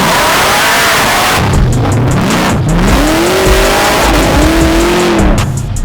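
Car engine revving hard several times, its pitch rising and falling, under a loud rushing noise that cuts off near the end.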